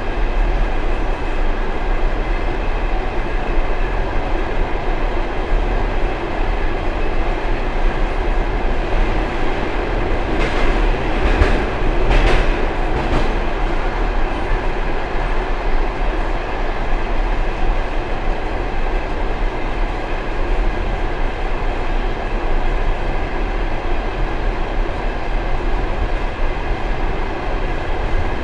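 Passenger train car running at speed, a steady rumble of wheels on rails heard inside the rear vestibule of the last car, with a short patch of louder clacking about ten to thirteen seconds in.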